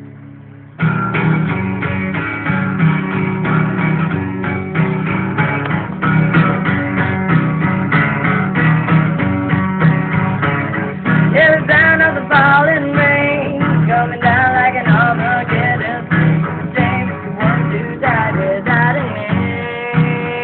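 Guitar music starting suddenly about a second in, with a wavering lead melody over it in the second half.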